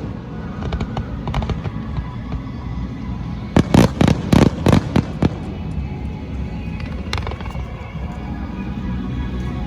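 Fireworks shells bursting in a display: a quick volley of several loud bangs from about three and a half to five seconds in, with a few lighter cracks before and after.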